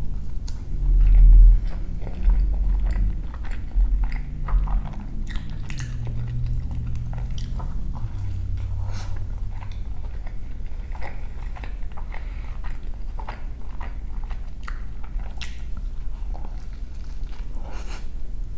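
Close-miked biting and chewing of a breakfast burrito: short mouth clicks and smacks throughout, with a few low thumps in the first five seconds, the loudest about a second in.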